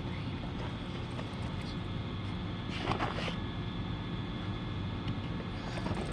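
An engine running steadily, with a short burst of rattling noise about three seconds in.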